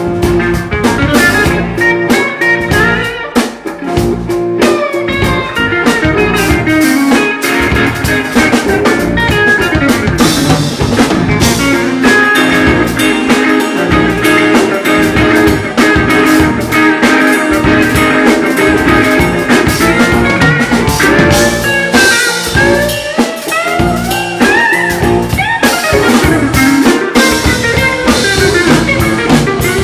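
Live blues band playing: guitar over a drum kit, with the guitar's notes bending in pitch about two-thirds of the way through.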